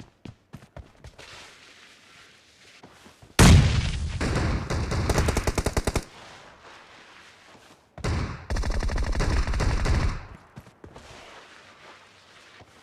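Video-game automatic gunfire: two long bursts of rapid shots, the first starting about three seconds in and lasting about two and a half seconds, the second starting about eight seconds in and lasting about two seconds.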